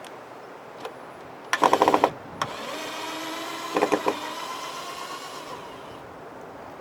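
A small electric motor whirring steadily for about three seconds, with a burst of rapid clicking just before it starts and another short burst partway through.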